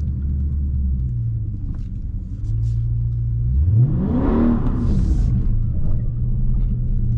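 Dodge Charger Scat Pack's 392 Hemi V8 running steadily, then revving up sharply about three and a half seconds in and dropping back, with a hiss of spinning tyres on the wet road as the car breaks traction and slides with traction control off.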